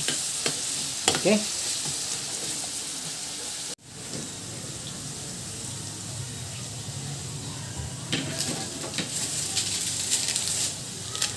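Vegetables sizzling in hot oil in a steel wok, with a metal spatula clicking and scraping against the pan in the first second or so. The sound cuts out abruptly for a moment just before four seconds in, then the steady sizzling carries on.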